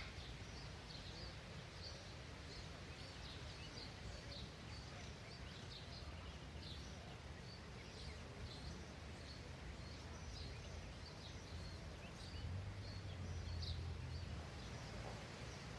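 Small birds giving many short, high chirps over a steady low outdoor rumble, with a louder low hum for a second or so about three quarters of the way through.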